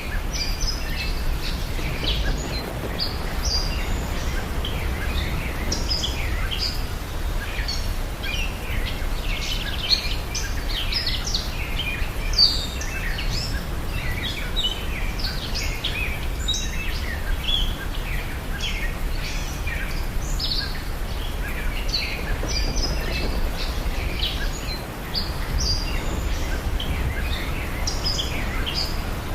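Many birds chirping and singing in overlapping short calls, over a steady low rumble.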